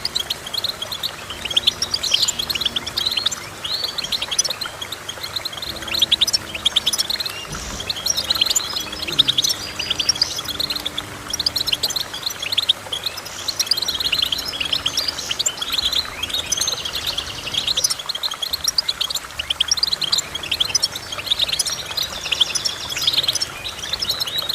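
A finch singing a long, fast twittering song of rapid chirps and trills, with only brief breaks.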